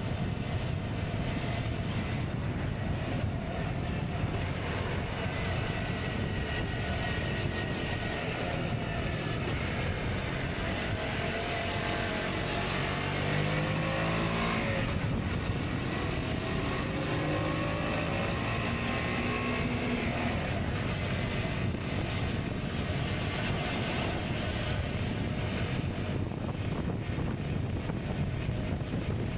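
KTM Duke 125's single-cylinder engine with an Akrapovic exhaust, under way against a steady rush of wind. About halfway through, the engine pitch climbs, drops sharply at a gear change, then climbs again as the bike accelerates.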